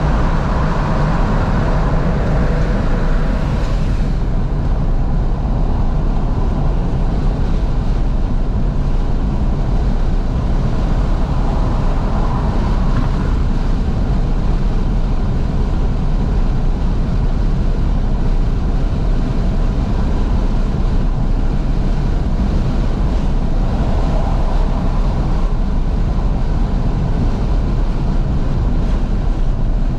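Steady road and wind noise inside a 2012 Fiat 500S driving with its windows wide open, the engine running underneath.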